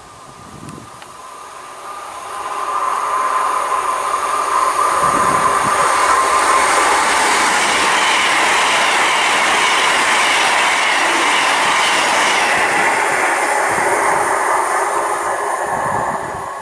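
A CrossCountry Voyager diesel multiple unit passing along the track: the noise of its engines and wheels on the rails builds to a loud, steady rush from about two seconds in, then falls away near the end as the last car goes by.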